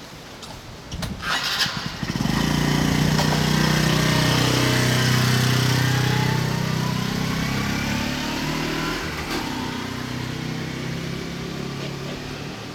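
A small engine starts abruptly about two seconds in, after a few clicks, and keeps running as a steady drone that slowly fades away.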